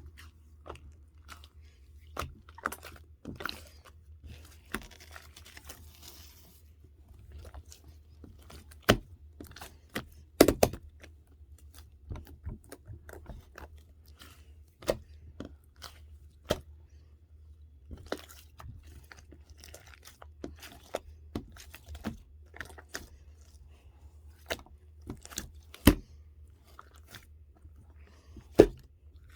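Irregular sharp clicks and crunches, a few much louder cracks among them, over a steady low hum.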